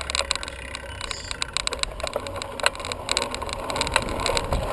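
Bicycle being ridden: a steady low wind rumble on the microphone with many small rattling clicks and knocks.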